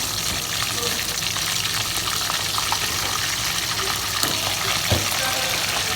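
Snakehead fish deep-frying in hot oil: a steady sizzle full of fine crackles, with one knock about five seconds in.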